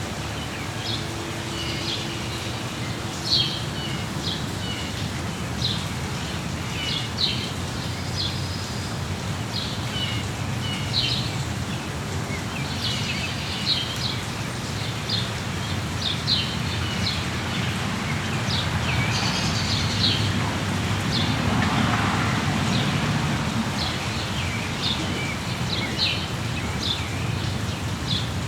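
Small songbirds chirping in short, high, repeated notes over a steady patter of rain, the rain noise swelling briefly about three quarters of the way through.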